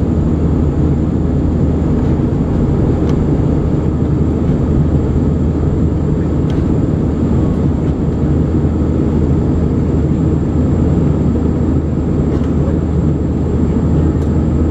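Steady cabin noise of an Airbus A320 airliner in flight: an even, deep engine and airflow rumble that holds the same level throughout.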